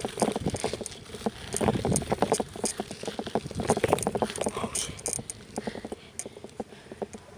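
Bicycle being ridden over rough ground, rattling and clicking irregularly, heavier in the first half and easing off toward the end.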